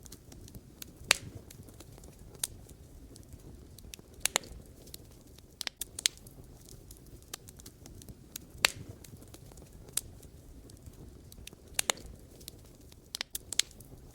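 Wood fire burning with a low steady rumble and sharp, irregular crackles and pops of the burning logs, about one every second or two.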